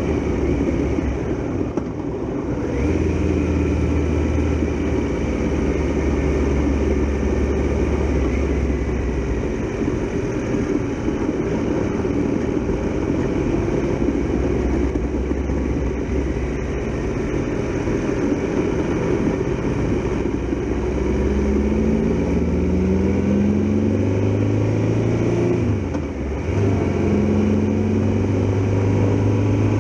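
Triumph Tiger Explorer XRx motorcycle's three-cylinder engine running under way, its note climbing in steps as it accelerates through the gears in the second half, with a short dip near the end.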